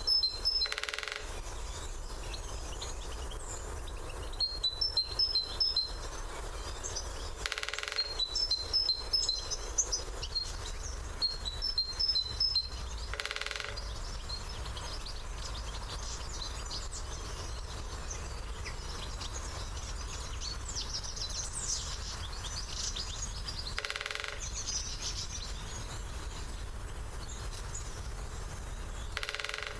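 Greater spotted woodpecker drumming on a hollow branch: five short, rapid rolls spaced several seconds apart. Small birds chirp in quick high series over the first half.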